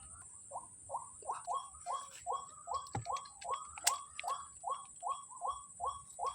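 White-breasted waterhen calling, a fast monotonous run of short downward-bending 'ruak' notes, about three to four a second, starting about half a second in. A steady high whine runs beneath.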